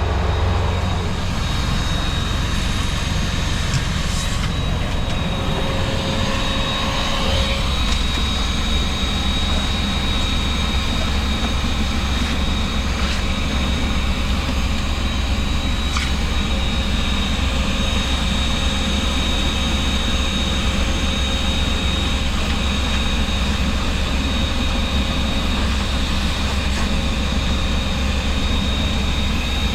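Semi truck's diesel engine idling steadily, a constant low drone with a thin steady whine above it, and a few faint knocks of work in the cab.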